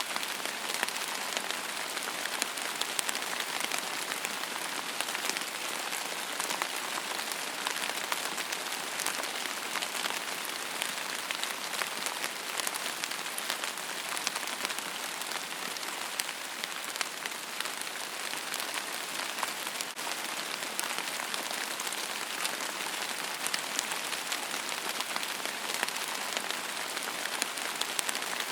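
Steady rain falling on a surface: a dense, even hiss of drops with many small distinct patters.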